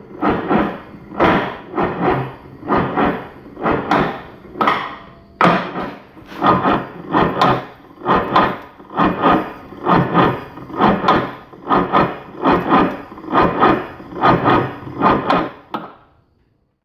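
A 440 two-stroke jet ski engine, primed with a shot of fuel, cranking over without catching. It makes a rhythmic rasping chuff about one and a half times a second, then cuts off sharply near the end.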